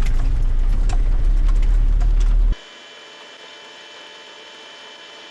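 Steady low vehicle rumble, like an engine running heard from in or next to the vehicle, with a few faint clicks. It cuts off abruptly about two and a half seconds in, leaving a much quieter steady hum with a thin high-pitched whine.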